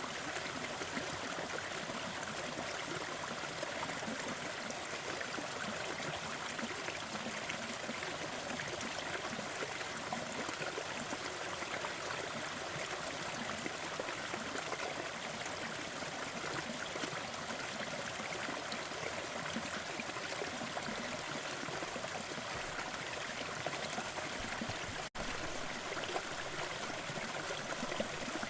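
Waterfall: steady running water. About 25 seconds in, it cuts out to near silence for a split second.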